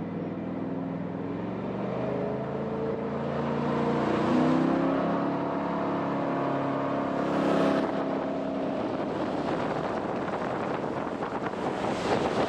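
Jet boat's engine revving up, its pitch rising as the boat accelerates. From about eight seconds in, the engine tone gives way to rushing wind and water noise buffeting the microphone at speed.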